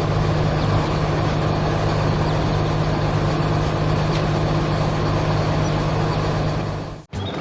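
A heavy vehicle engine runs steadily with a deep, even drone, then stops abruptly near the end.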